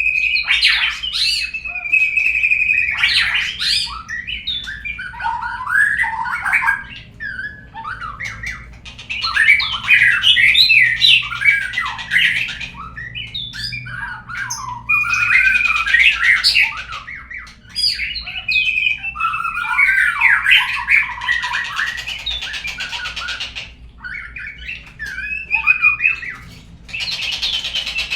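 Murai songbird singing a long, varied song of quick warbles, whistled notes and harsh squawking calls, with a few short breaks. This is the lure song played to prompt other murai to sing.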